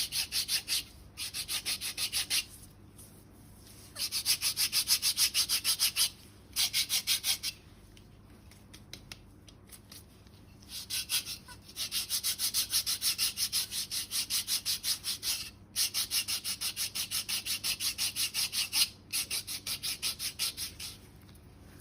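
Foot file rasping back and forth over thick, dead skin on the sole or heel, in bouts of rapid strokes about five a second with short pauses between them.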